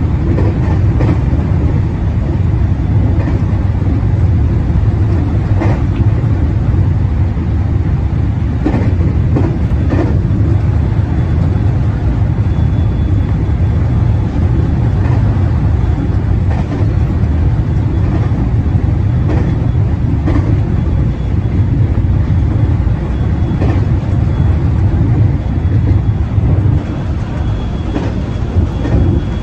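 A 521 series electric multiple unit running at speed, heard from inside its front cab: a steady low rumble of wheels on rail, with a clack over a rail joint every second or few. A faint high whine comes and goes.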